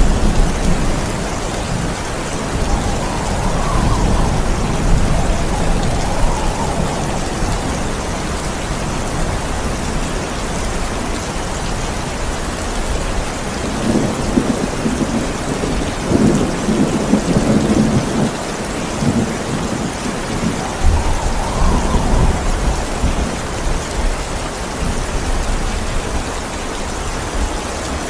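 Heavy, steady rain with thunder rumbling several times, the deepest rolls near the middle and again a few seconds later.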